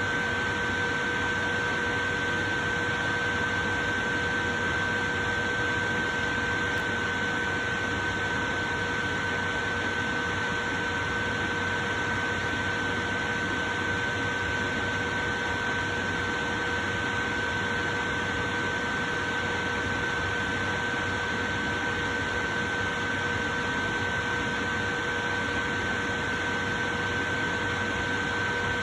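Portable electric fan running steadily: an even rush of air with a faint hum of a few held tones.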